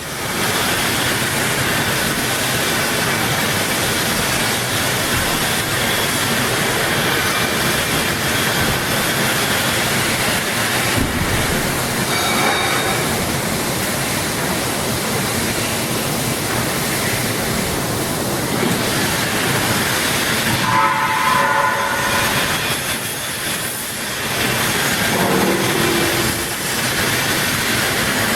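Steady industrial machine noise, a continuous even hiss-like din, with a few brief squealing tones about three quarters of the way through.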